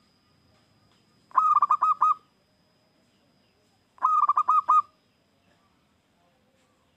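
Zebra dove (perkutut) singing: two short phrases of quick staccato cooing notes, five or six notes each, about two and a half seconds apart.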